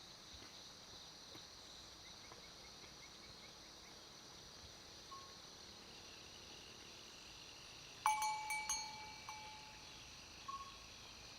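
A quick run of several bright metallic rings, like a small bell or chime being struck, about eight seconds in, with one fainter ring near the end. Under it is a faint, steady high insect drone with a few short chirps.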